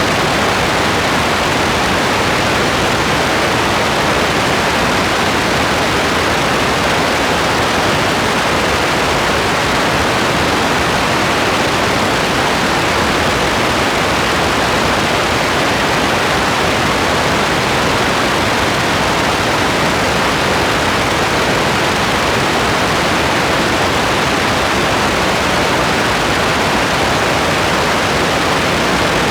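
Steady rain falling, a dense even hiss with no separate drops, thunder or changes in level.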